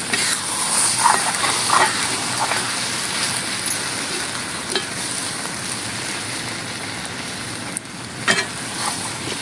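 Squash and potato pieces sizzling as they fry in a pot over the fire, with a metal ladle stirring and scraping against the pot a few times.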